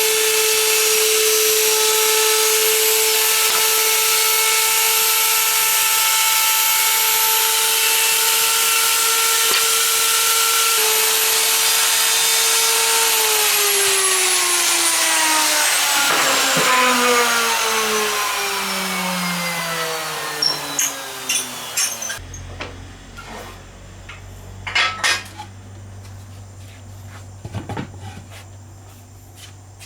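An electric power tool running at a steady high whine, switched off about 13 seconds in and winding down in falling pitch over roughly nine seconds. After that come a few scattered light knocks and clicks.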